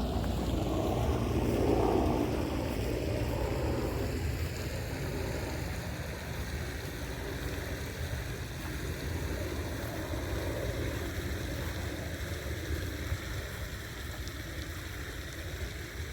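Steady outdoor noise with a heavy low rumble and a hiss above it, loudest in the first few seconds and easing off after.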